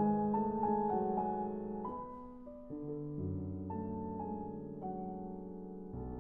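Slow background piano music: held notes and chords, changing every second or so.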